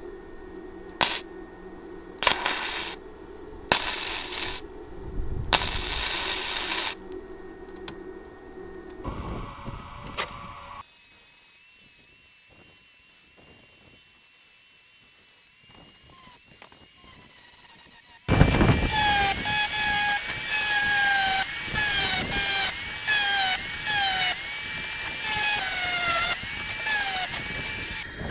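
A handheld power tool: several short hissing bursts, then a long loud run with a whine that repeatedly dips in pitch as the tool bites into metal.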